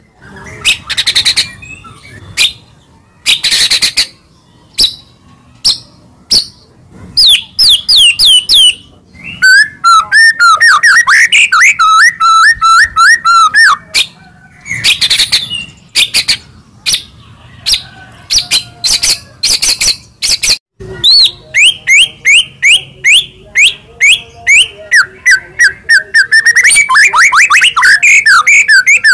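White-rumped shama (murai batu) singing loudly in full song: varied phrases of rapid sweeping whistled notes, a warbling run in the middle and long series of quick repeated notes near the end.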